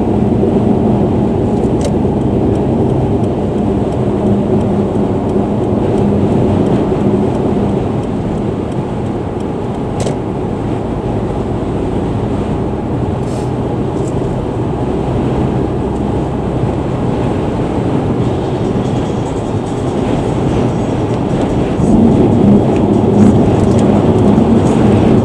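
Steady low rumbling road and engine noise of a car cruising on an expressway, heard from inside the cabin, with strong gusty wind buffeting the car; it grows louder near the end.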